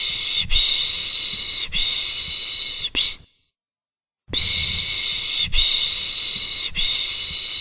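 A person shushing a baby to sleep with the Turkish 'piş piş' sound. Long 'shh' hisses run together in groups of three with a short fourth, with about a second of silence between groups.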